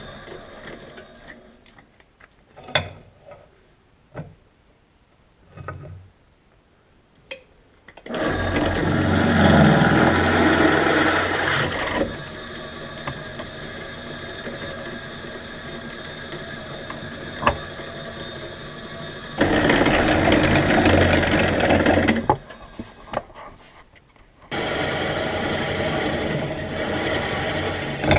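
Electric drill running under load, boring holes through thick steel plate. It starts about eight seconds in after a few scattered knocks, runs at varying strength, eases off briefly a little past the middle, and starts again near the end.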